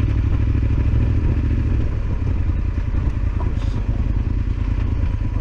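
Yamaha Super Ténéré XT1200Z's parallel-twin engine running steadily at low speed on a rough dirt track, with some clatter from the bike over the rocky ground.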